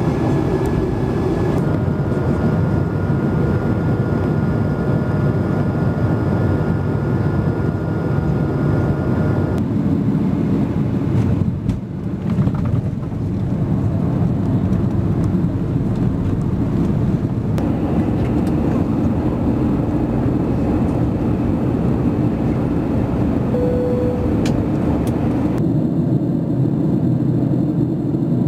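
Jet airliner cabin noise heard from a window seat: a steady low rumble of engines and airflow. Its character changes abruptly about every eight seconds, as one flight's recording gives way to another's.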